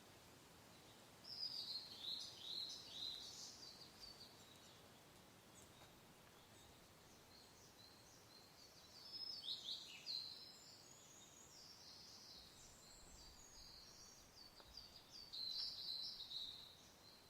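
Songbirds singing quick, high chirping phrases in three bouts, a few seconds apart, over a faint steady wind hiss.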